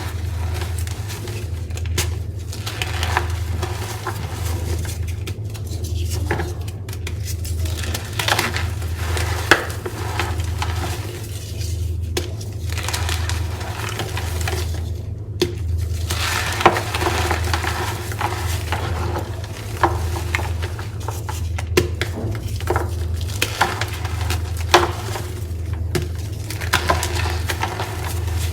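Gym chalk being crushed and squeezed, crumbling with squeaky, crunchy crackling and scattered sharp snaps, over a steady low hum.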